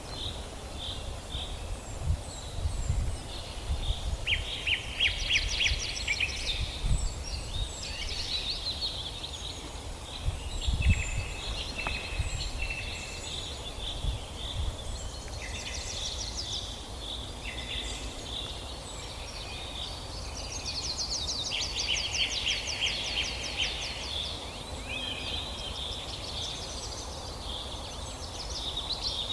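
Several songbirds singing in a forest, their chirps and rapid trilled phrases overlapping, over a steady low background rumble.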